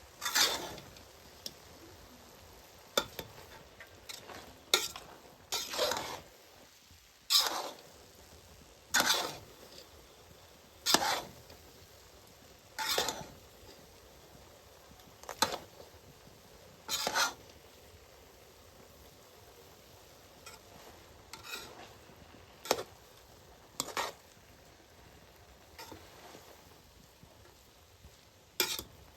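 Ladle scraping and stirring food frying in a cooking pot, one short stroke roughly every two seconds, over a faint sizzle.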